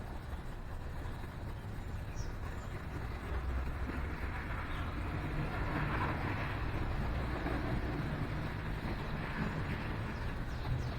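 Low rumble of road traffic, a vehicle passing and swelling in loudness from about three seconds in, with a few faint bird chirps.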